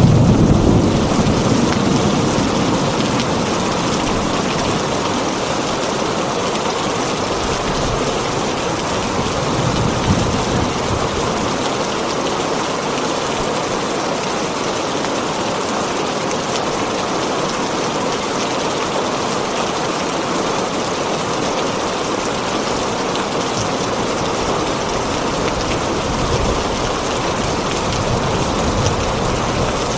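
Heavy rain falling steadily on a tin roof. A roll of thunder rumbles in the first couple of seconds and fades away.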